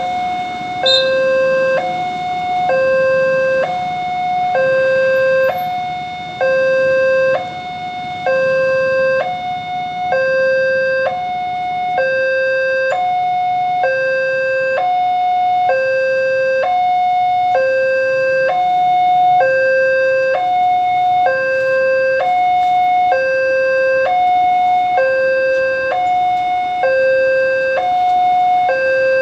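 Electronic railroad crossing warning alarm sounding: two tones, a lower and a higher, alternating about once a second without a break. It signals that the barriers are down and a train is approaching.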